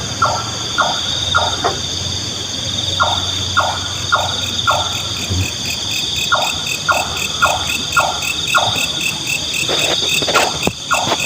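Nightjar (burung cabak) calling: series of short, evenly repeated notes about two a second, four to seven in a run with pauses between runs. A steady high trill of crickets runs underneath.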